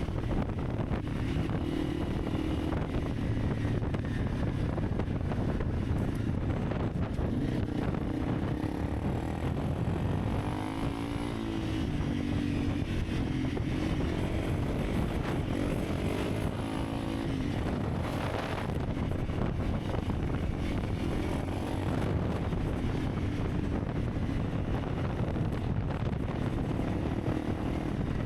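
Honda CRF300 Rally's single-cylinder engine running steadily under way, with wind rushing over the microphone. The engine pitch wavers briefly about halfway through.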